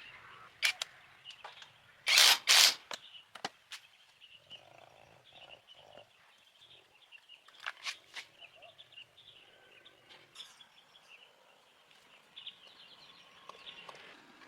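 Two loud, short noisy bursts a couple of seconds in, and scattered sharp knocks and clicks, over a faint steady chirring of animals in the background.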